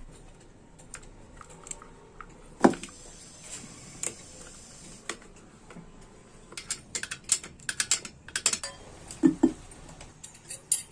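Small metal parts and tools being handled: a sharp knock about two and a half seconds in, then a run of quick light clicks and clinks, and two dull thuds near the end.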